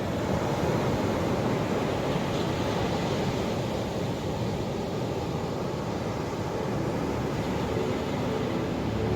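Ocean surf washing in a steady, deep rush without breaks. Soft music comes in faintly near the end.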